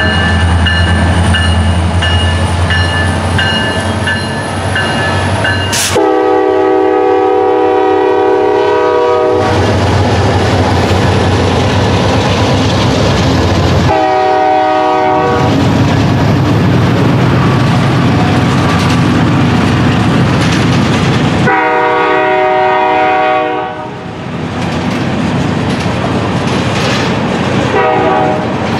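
Norfolk Southern diesel freight locomotives pass close by with their engines rumbling, then a string of loaded tank cars rolls past, wheels clattering over the rail joints. The lead locomotive's chord horn sounds down the line: a long blast about six seconds in, a short one around fourteen seconds, another around twenty-two seconds, and a faint one near the end.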